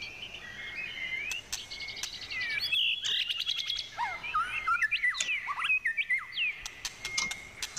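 Small wild birds chirping and calling, many short rising and falling whistled notes overlapping, with a few light clicks.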